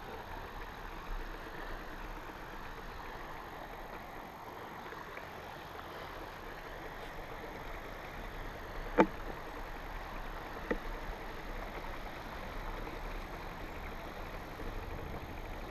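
Steady rolling and rushing noise from a mountain bike ride picked up by a GoPro camera, with two sharp knocks, a loud one about nine seconds in and a fainter one a second and a half later.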